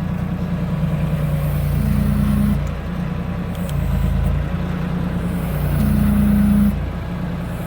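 Pickup truck engine idling: a steady low hum, with a slightly higher tone that comes and goes a few times.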